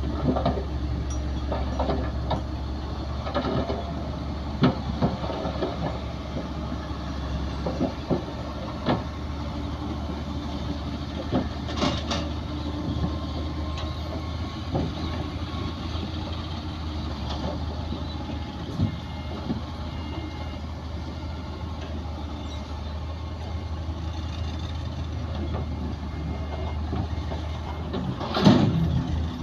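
Heavy diesel earthmoving machinery, bulldozers and dump trucks, running steadily with a low engine hum, with scattered clanks and knocks and a louder burst near the end.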